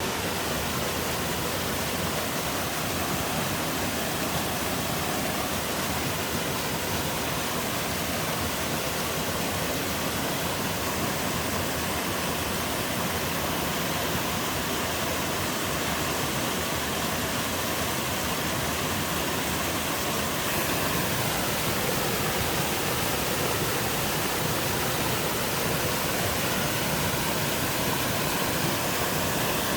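Mountain-stream waterfall rushing steadily over rock, a continuous full-range roar of falling water that rises slightly after about twenty seconds.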